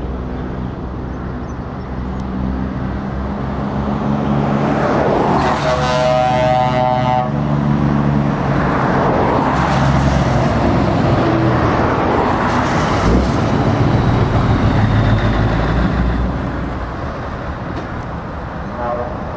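Heavy trucks driving past with their engines running, the noise building and then fading as they go by. About five seconds in, a steady pitched tone sounds over them for about two seconds.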